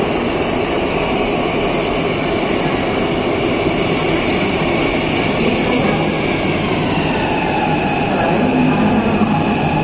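Electric commuter train pulling into an underground station platform, a steady rumble of wheels on rails with faint whining tones, echoing in the station.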